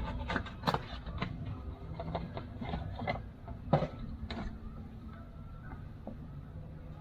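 Irregular clicks and knocks of hand-handled metal and plastic parts, loudest in the first half with one sharp knock near the middle, as an oil filter is being fitted back on, over a steady low hum.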